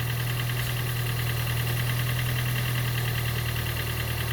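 1.5-litre engine of a second-generation Toyota Prius turning over steadily with a low hum and a rapid, even pulse, struggling to run. The mechanic puts the hard starting down to compression that is too low.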